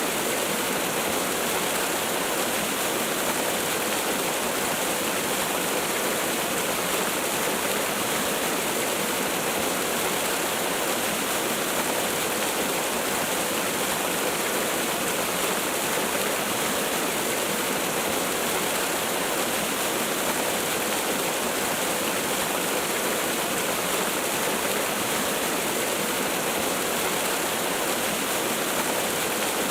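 Waterfall: water falling and splashing in a steady, unbroken rush that spreads across high and low pitches alike.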